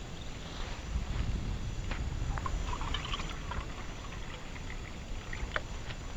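Wind buffeting the microphone, a low rumble that swells about a second in, with a few light clicks and short high-pitched blips over it.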